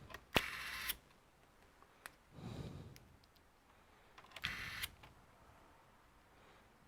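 Laptop parts being handled during reassembly: a sharp click, then two half-second rattling bursts about four seconds apart, with a duller rustle between them.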